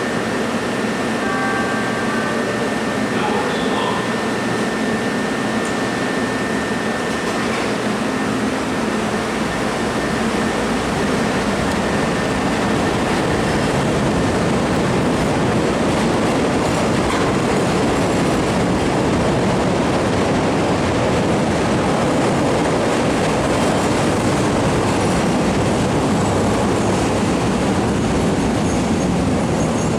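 CTA rapid transit train running along the rails, a steady loud wheel-and-rail noise with a thin high whine over it for the first third that then fades out; the noise grows a little louder about ten seconds in.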